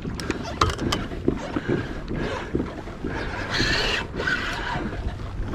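Water sloshing and splashing around a kayak hull, with wind on the microphone and scattered sharp clicks in the first second.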